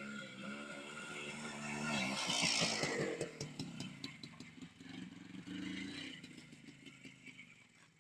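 Minsk motorcycle's two-stroke single-cylinder engine running as the bike is ridden. About two seconds in there is a loud stretch of clattering and scraping. The engine is heard again after that and then fades away near the end.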